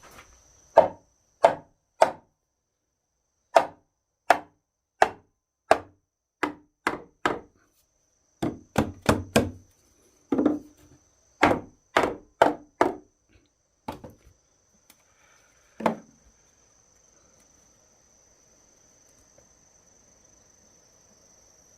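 Wood being chopped: about twenty sharp blows in uneven runs, roughly one or two a second with a quick flurry near the middle, stopping about 16 seconds in. A steady high insect trill carries on behind.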